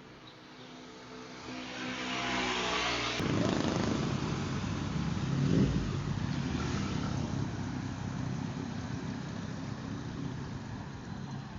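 A fast road vehicle's engine approaching and growing louder over the first three seconds, then an abrupt change to a louder rushing roar. The roar peaks about five and a half seconds in and fades slowly as it passes.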